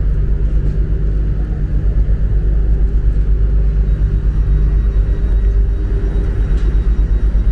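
Passenger train rumbling at a station platform, a steady loud low rumble; a hum in it drops away about five seconds in.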